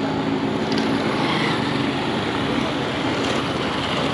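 Steady traffic noise of a city street, with a vehicle engine droning during the first second or so.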